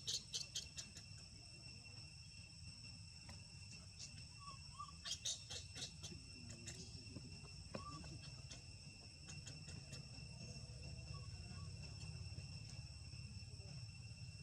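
Faint steady chorus of insects buzzing in several high even tones. A few sharp clicks come at the start and again around five seconds in.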